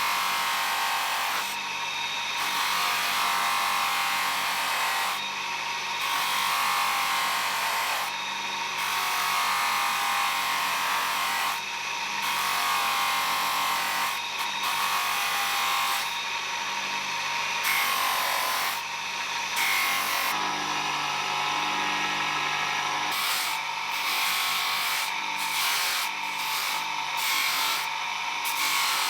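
Abrasive sanding or grinding on metal parts of a World War I time fuse, a steady rubbing noise in long passes broken by short pauses every few seconds.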